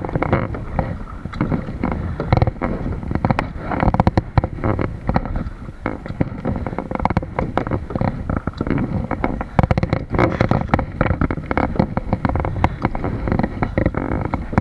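Water splashing and dripping around a kayak as it is paddled, a dense irregular crackle of small splashes, with wind rushing on the microphone.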